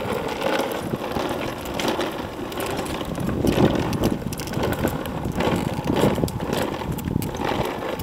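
Ride-on toy dump truck rolling along a concrete sidewalk: a steady, rough rumble of its wheels over the pavement.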